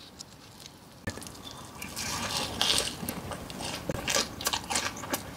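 Close-up eating sounds: bites and chewing with crisp crunches, starting about a second in. A few louder crunches come in the middle.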